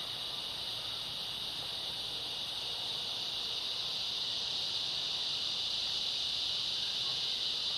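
Steady chorus of insects, a continuous high-pitched chirring with no breaks.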